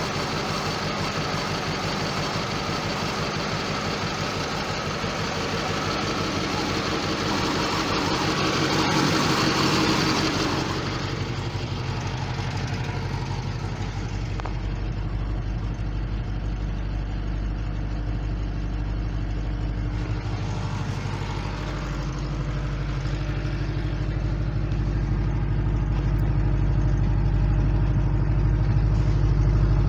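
1987 Subaru GL's carbureted EA82 1.8L flat-four engine idling steadily after a cold start. A broader rushing sound over the idle drops away about eleven seconds in, leaving the low, even idle note.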